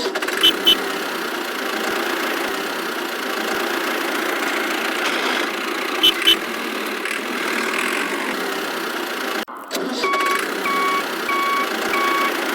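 A small motor running steadily, with two quick double clicks early and again about six seconds in. It cuts out briefly about nine and a half seconds in, then four evenly spaced short beeps follow.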